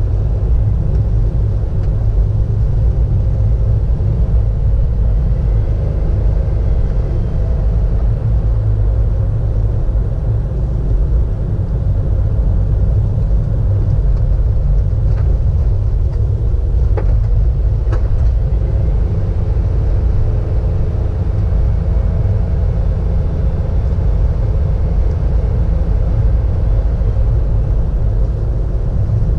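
Car driving along a road, heard from inside: a steady low rumble of engine and tyre noise, with a few brief clicks about halfway through.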